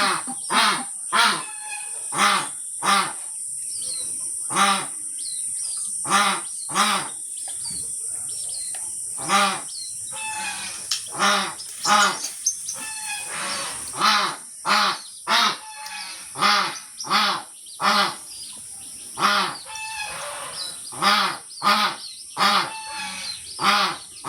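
A bird honking over and over in short calls, each rising and falling in pitch, about one or two a second with a few brief pauses. A steady high-pitched hiss runs behind the calls.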